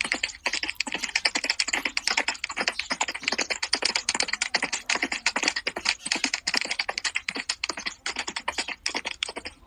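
Rapid, irregular clicking and tapping, several sharp clicks a second.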